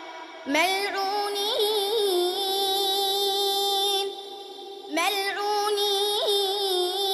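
A young girl reciting the Quran in a melodic chanting style, holding two long drawn-out notes of several seconds each, with small ornamental turns in pitch and a short pause for breath between them.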